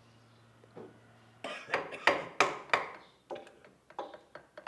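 Mallet strikes on a wood-carving chisel: a quick run of sharp taps, about three a second, starting about a second and a half in.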